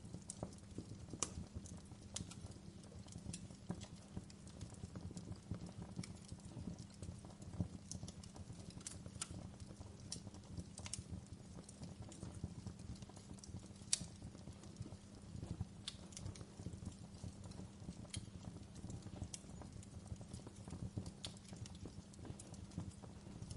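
Wood fire burning in a fireplace, crackling with irregular sharp pops and snaps over a low, steady rumble. The loudest snap comes about halfway through.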